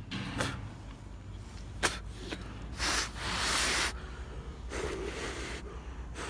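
A person breathing out hard in one long breath about halfway through, with a weaker breath later, a few small clicks of handling, and a steady low rumble underneath.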